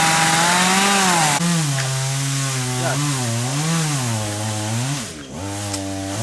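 Chainsaw at work on a large khaya tree: held at high revs for about the first second and a half, then its engine pitch rising and falling repeatedly as the throttle is worked, with a brief drop about five seconds in.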